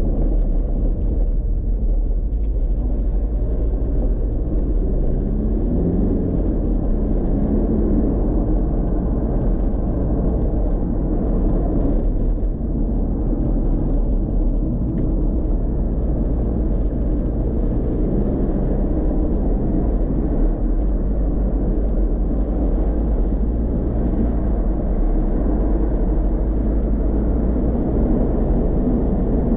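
In-cabin sound of a chip-tuned Škoda Octavia 1.9 TDI's four-cylinder turbodiesel pulling the car along under way, with steady road and tyre rumble. The engine note rises and falls a few times with speed and throttle.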